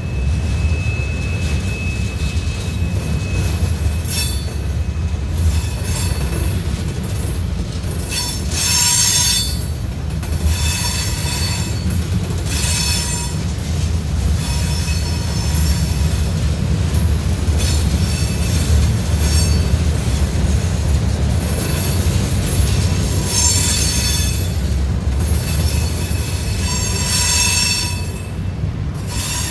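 Norfolk Southern freight train's cars, open-top gondolas then covered hoppers, rolling past with a steady low rumble, and high-pitched wheel squeal that comes and goes every few seconds.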